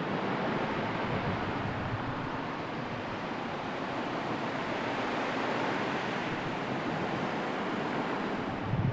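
Sea waves washing in as a steady rushing noise, with a brief low rumble near the end.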